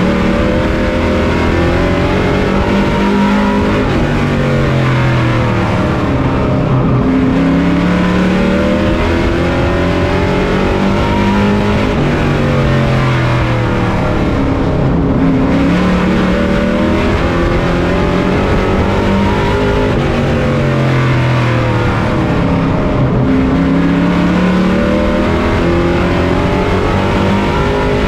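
On-board sound of a Pro Truck race truck's engine at racing speed on a short oval. The engine pitch climbs and falls again about every eight seconds, easing off into each turn and pulling back up down each straight.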